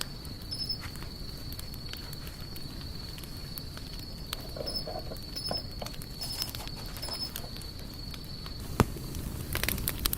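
Campfire burning with scattered crackles and pops over a low steady rumble; one sharp, loud pop about 9 s in, then a quick flurry of crackles near the end.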